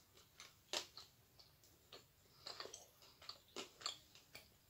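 Faint, sharp crunches of a hard, dry piece of edible clay being chewed with the mouth closed, coming irregularly, the loudest about a second in and a quick cluster of them past the middle.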